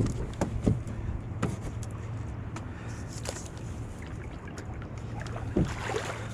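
Hobie Outback kayak under way on the water, with a steady low rumble and scattered small knocks and clicks from the hull and gear.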